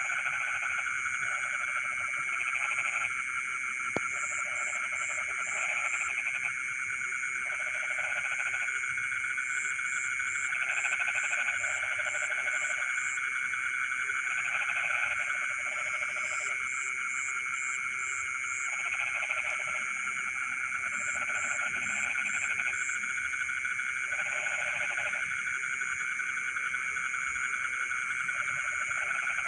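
Chorus of frogs calling in a rice field: a steady, dense chorus with a lower call of about a second repeating every second or two, and short pulsed trills high up every few seconds. A single sharp click about four seconds in.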